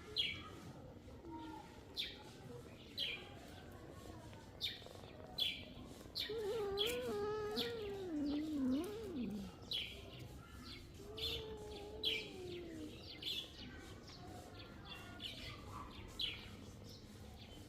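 Animal calls: short, high, falling chirps repeating about once a second, with a longer, wavering, lower call in the middle and a shorter falling one a few seconds later.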